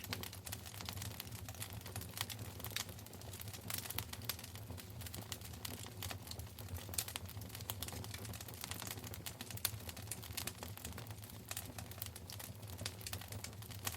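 Fire crackling in a fireplace: irregular sharp pops and snaps over a low, steady rumble.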